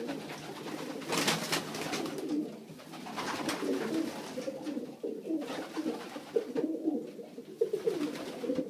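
Racing pigeons cooing steadily in a small loft. Two louder noisy bursts, about a second in and again around three and a half seconds, are wing flapping as the birds fight over perch space.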